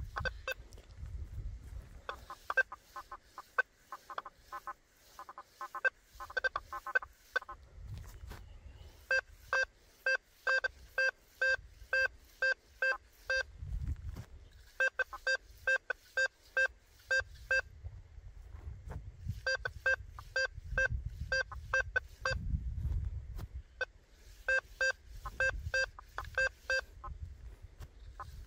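Quest V80 metal detector with an 11-inch Blizzard coil giving short target beeps as the coil sweeps over buried metal, in runs of several beeps about two a second, with a low rumble in between.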